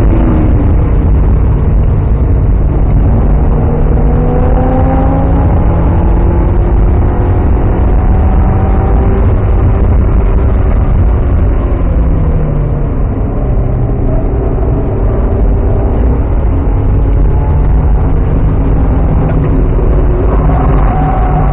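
Mazda Miata's four-cylinder engine heard from inside the car at track speed, its pitch climbing and falling repeatedly as it accelerates and lifts through the corners, with a brief drop in level about two-thirds of the way through, over a heavy low rumble.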